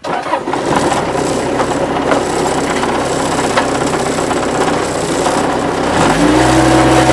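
Bobcat 763 skid-steer loader's diesel engine running under work, with scattered cracks and crunches of wood debris. About six seconds in, the engine speeds up and grows louder.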